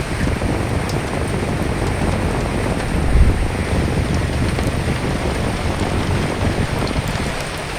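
Steady rain falling, with a gust of wind that rises into a deep rumble at the start, is strongest about three seconds in, and eases off near the end.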